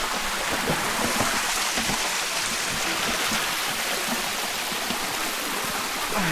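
Steady rushing of water, an even hiss that does not let up.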